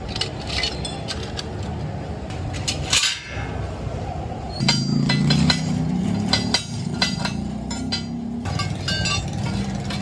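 Metal clinking and knocking in a workshop, with a machine running steadily underneath; the machine gets louder for about two seconds near the middle.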